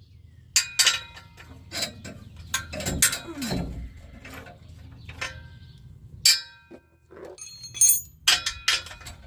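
Sharp metal clinks and knocks from exhaust hardware and tools as an exhaust hanger is worked loose, about a dozen separate strikes with a bright ring, the loudest about six and eight seconds in. A short falling groan-like sound comes about three seconds in.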